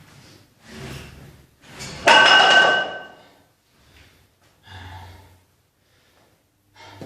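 A person breathing hard between lifts, with one loud metallic clank of gym weights about two seconds in that rings briefly.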